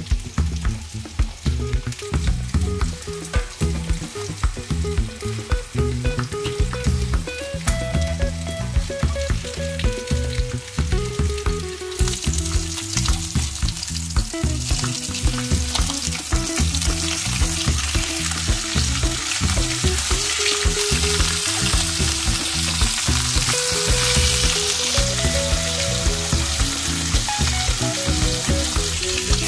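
Food frying in hot oil in a pan: a quieter sizzle of sliced red pepper at first, then pork neck steaks sizzling more loudly from about twelve seconds in. Soft background music with a steady low pulse runs underneath.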